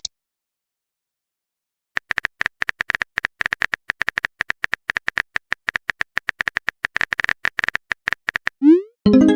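About two seconds of silence, then a run of rapid, evenly struck phone-keyboard typing clicks, several a second. Near the end comes a short rising swoosh and a chime, like a message-sent notification.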